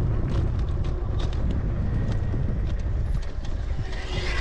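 Wind buffeting the microphone while riding a bicycle, a steady low rumble with scattered clicks and rattles throughout.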